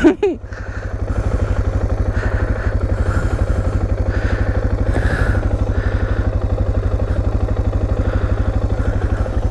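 Suzuki DR650's single-cylinder four-stroke engine running steadily at a low, even beat like an idle. There is a short loud clack right at the start.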